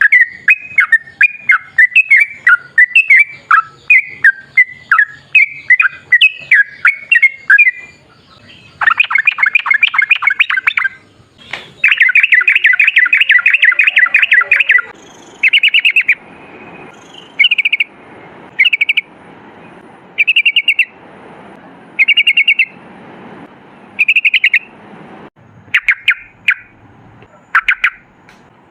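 Yellow-vented bulbul (trucukan) singing: a run of short rising-and-falling chirps, then two fast rapid-fire chattering bursts, after which it settles into separate short phrases about every second and a half. This is the long rapid 'ropel' song used as a lure to get other bulbuls to answer.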